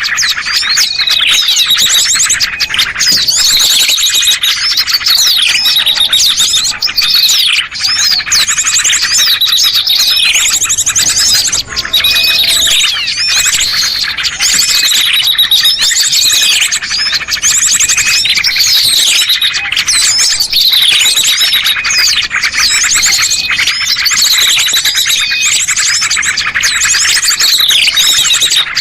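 A loud, dense chorus of many small songbirds chirping and trilling without a break, a bird-lure (pikat) recording for calling small birds down. A sweeping call that falls in pitch comes round every two to three seconds over rapid high trills.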